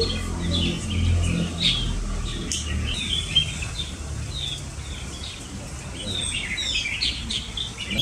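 A flock of songbirds calling over one another, with many short chirps and quick whistled notes running on without a break, over a low steady rumble.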